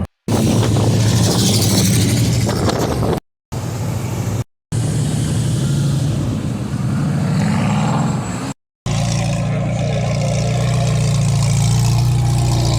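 Car engines running and revving, a loud low drone with noise above, in short segments that cut off abruptly several times.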